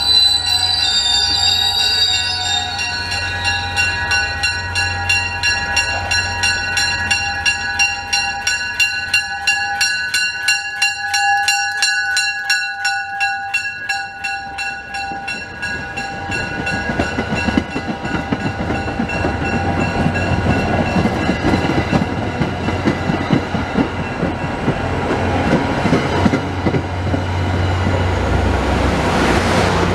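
A train on the rail line: a high wavering squeal at the start, then a fast, even ringing of steady tones, about four strikes a second, for some twelve seconds. Through the second half the rumble of the train grows louder.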